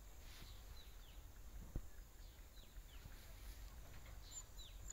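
Quiet outdoor ambience with a few short, falling bird chirps scattered through, and a single sharp click a little under two seconds in.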